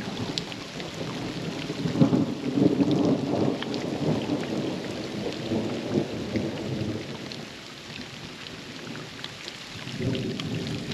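Heavy rain coming down hard, with many individual drops pattering close by. A louder low swell in the rain noise builds about two seconds in, eases off after about seven seconds and rises again near the end.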